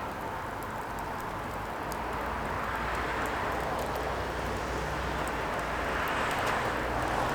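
Firewood fire burning: a steady rushing hiss with a low rumble and scattered faint crackles.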